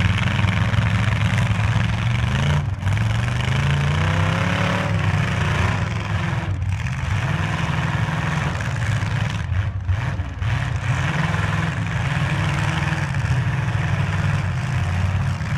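Derby truck engines running, one revving up with a rising pitch about three seconds in, then settling back.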